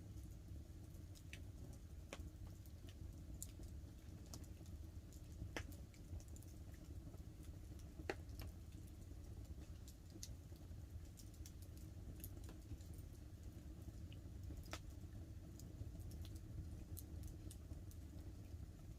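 Wood fire crackling with scattered sharp pops, over a steady low rush of light rain falling on the tarp.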